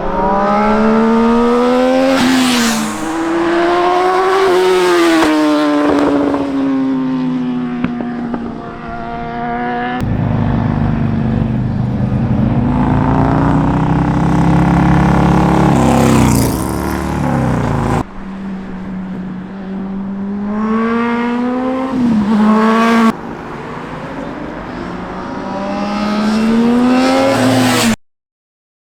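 Motorcycle engines revving hard through the gears, the pitch climbing and then dropping sharply at each shift, in several short clips cut one after another. The sound stops abruptly about a second before the end.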